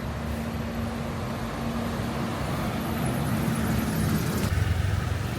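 Road traffic: a steady low rumble of motor vehicles, with an engine drone that fades out about four seconds in as another vehicle's rumble swells.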